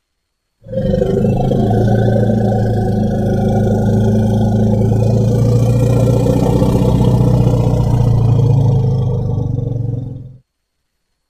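Elephant sound effect: one long, low, steady call lasting about nine and a half seconds, starting about half a second in and stopping shortly before the end.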